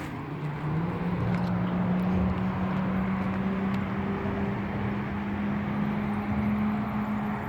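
Outdoor motor traffic noise with a steady engine drone that slowly rises in pitch.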